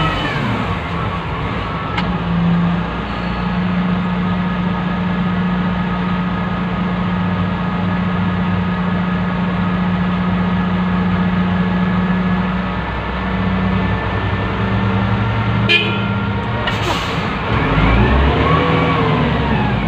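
Wheel loader's diesel engine heard from inside the operator's cab, running steadily, then revving up and down near the end as it works. There is a sharp click about 16 seconds in and a short hiss about a second later.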